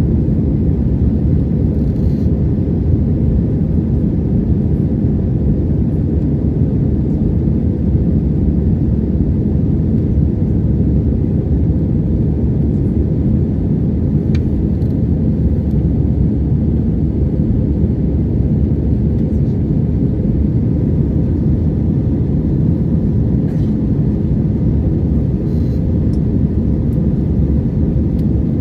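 Steady low rumble of an Airbus A320-family jet airliner's cabin in flight: engine and airflow noise, with a few faint ticks.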